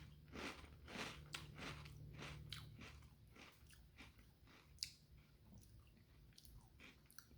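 A person chewing a mouthful of Cocoa Pebbles Crunch'd cereal in milk, crunching about twice a second at first, then slowing to a few faint, scattered crunches.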